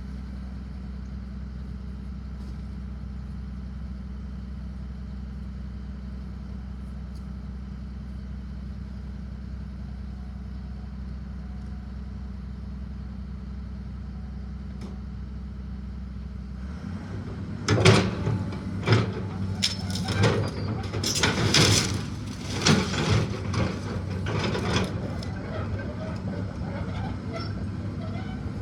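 A heavy machine's engine runs steadily. About seventeen seconds in its note rises, and for about eight seconds there are loud cracks and crashes of wood and debris breaking as the house is torn down; then the engine runs on under load.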